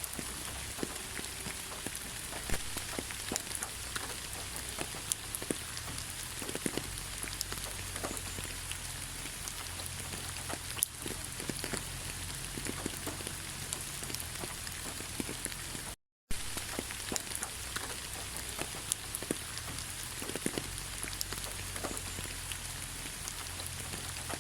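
Steady rain falling, an even hiss dotted with many separate drops landing. The sound cuts out completely for a split second about two-thirds of the way through.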